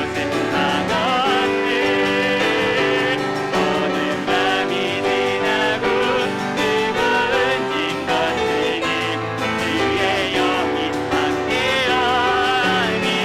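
A church praise team singing a worship song with piano accompaniment, the voices and instruments going on without a break.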